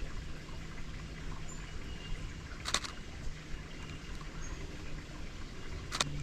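Canon R7 camera shutter firing twice, once a little under three seconds in and again near the end, each a short sharp click, over a steady outdoor hiss.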